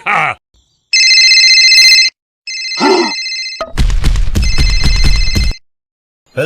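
Telephone ringing with an electronic trilling ring in three bursts of about a second each. A loud low rumble sounds under the last ring.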